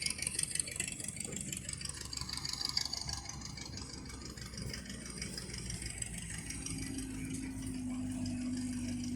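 An engine running steadily with a low rumble; a steady humming tone joins about two-thirds of the way in.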